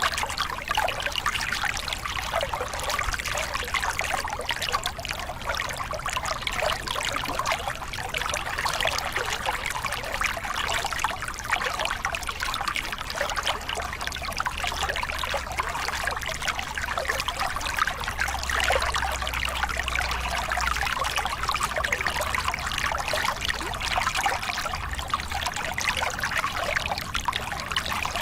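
A small river cascade, water splashing and flowing steadily over the drop.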